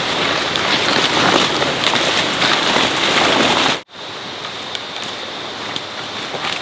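Steady rain falling, a dense hiss with scattered sharp drop ticks. Just before four seconds in it cuts out abruptly and comes back quieter.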